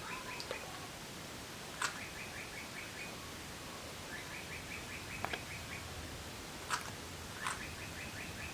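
A small bird singing a repeated trill, a quick run of about seven high chirps lasting about a second, heard about four times, with a few sharp clicks between.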